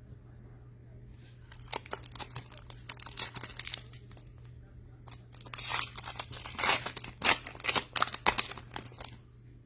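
Plastic wrapper of a basketball trading-card pack being torn open and crinkled, in two spells of crackling: a lighter one from about 1.5 to 4 seconds, then a louder, denser one that stops about 9 seconds in.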